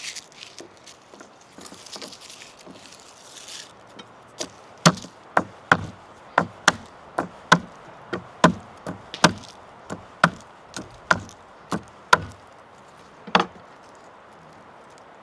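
Knife chopping on a wooden cutting board: a steady run of sharp knocks, about two a second, with one last knock after a short pause. Light rustling comes before the chopping starts.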